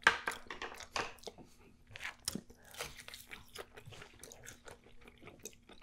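A person chewing crunchy fried food, a run of irregular crisp crunches.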